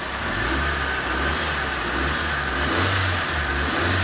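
Mitsubishi Lancer engine running, its revs rising a little about three seconds in. The AC and power-steering drive belt has just been retensioned, and no belt squeal is heard.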